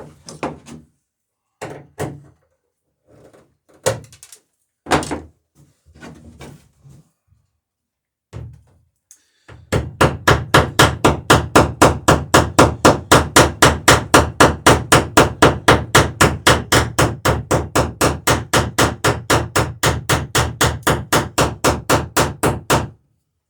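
A few scattered knocks and taps, then about ten seconds in a hammer begins striking rapidly and evenly, about four to five blows a second, for some thirteen seconds: peening rivets over their burrs to fasten the plank laps of a wooden dory.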